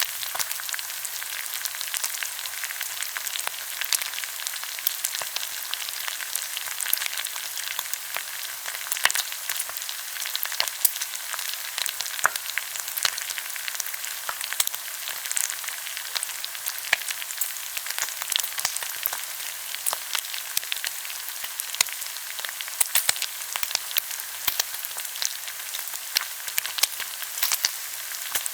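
Pork belly sizzling as it grills, a steady fat-spitting hiss with frequent small crackling pops.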